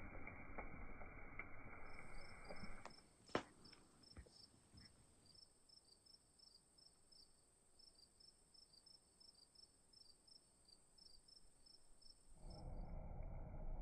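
Crickets chirping faintly: a steady high trill with rhythmic short chirps about two a second over it. A sharp knock sounds about three seconds in, and duller background noise fills the first two seconds and the last second.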